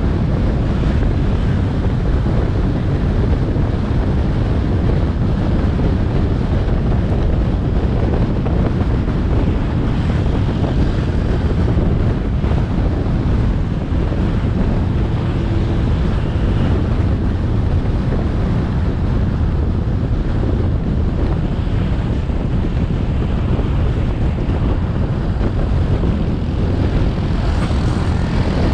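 Wind buffeting the microphone of a moving motorcycle, a steady low rumble blended with the bike's engine and road noise.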